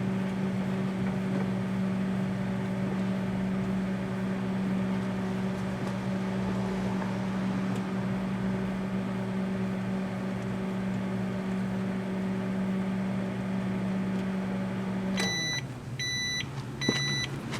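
Daewoo microwave oven running with a steady hum while heating a bar of laundry soap. About fifteen seconds in it shuts off and beeps three times, signalling the end of the cooking cycle.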